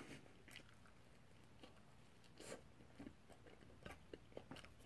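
Faint chewing of a mouthful of bread: scattered soft mouth clicks and smacks, one a little louder about halfway through, over near silence.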